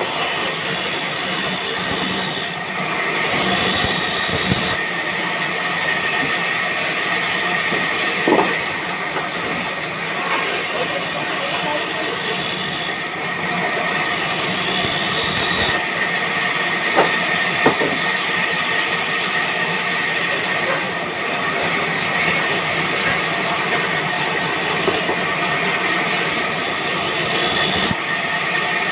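Sawmill machinery running: a steady, dense hiss with a faint high whine, shifting in character every few seconds.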